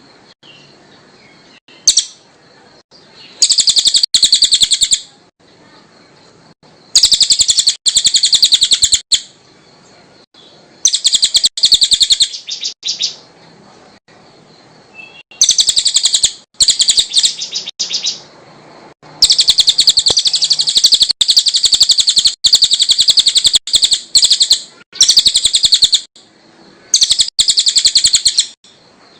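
A cililin songbird singing in loud bursts of very rapid, high chattering notes, each burst lasting one to three seconds with short pauses between. It is the kind of recording used as masteran, song for caged birds to copy.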